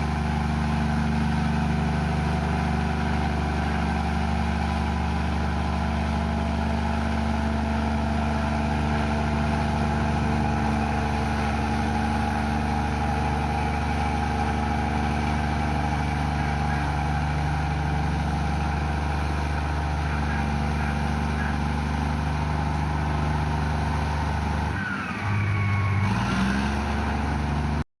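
Komatsu bulldozer's diesel engine running steadily. Near the end the engine note dips and then climbs, and the sound cuts off abruptly.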